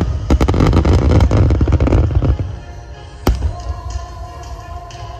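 Aerial fireworks: a dense barrage of crackling bursts over a heavy low rumble for about two seconds, then one sharp bang a second or so later.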